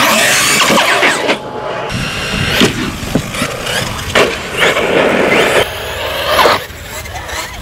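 Team Corally Kagama 1/8-scale RC truck driven hard: its brushless electric motor whines up and down with the throttle in quick sweeps, along with tyre noise and landings. The sound changes abruptly twice as short clips are cut together.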